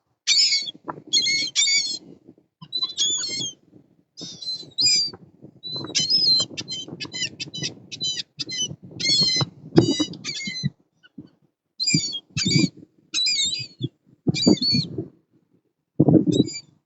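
A flock of birds calling loudly in quick bouts of short, harsh, squawking cries, many overlapping, with pauses of a second or so between bouts. Low rumbling gusts run underneath, the sound of wind buffeting the microphone.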